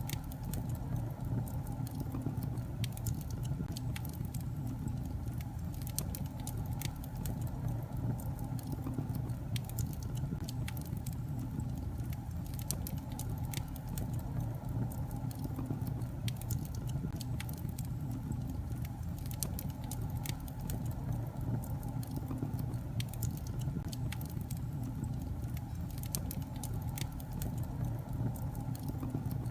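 Wood fire burning in a fireplace: a steady low rumble of flames with frequent scattered crackles and pops from the logs.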